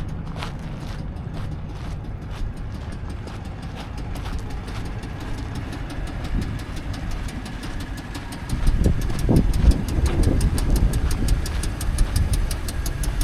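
Engine of a 2012 Dodge Ram 2500 idling, with a fast, even ticking over the running. About two-thirds of the way in it gets louder and deeper.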